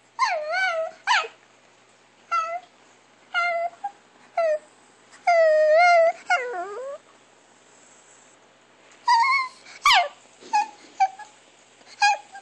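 Chihuahua whimpering in a series of short, high, wavering cries, with one longer cry that falls in pitch about six seconds in. After a pause of about two seconds, more short cries follow.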